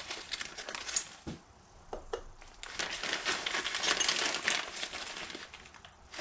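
Plastic packaging of a caster wheel bearing kit crinkling as it is handled and opened, with scattered small clicks and knocks from the parts inside.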